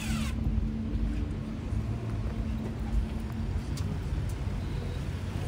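Ferrari SF90 Stradale's twin-turbo V8 running low as the car creeps along at walking pace: a steady low rumble with a held hum through the first few seconds. A short falling squeak sounds right at the start.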